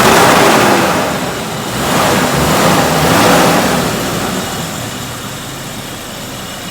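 Car engine revved up twice in quick swells, then settling back to a steady idle. It is running again after water was cleared from the gasoline and a clogged injector was cleaned.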